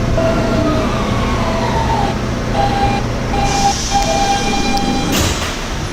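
Subway car's Siemens traction motors and inverters whining as the train brakes into a station: the whine falls in pitch over the first two seconds, then settles into steady tones over the rumble of the car. About five seconds in comes a short hiss of air.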